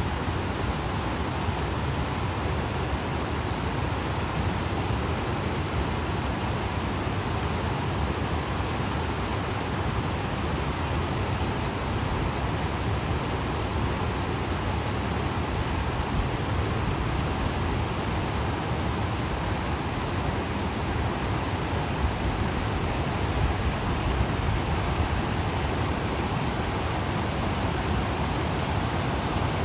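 Stream water flowing and splashing over rocks and small dams, a steady rushing babble.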